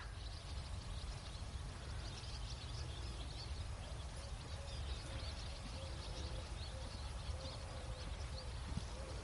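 Outdoor ambience: a steady low rumble with many faint, short, high bird chirps throughout, and a faint wavering call from about halfway in.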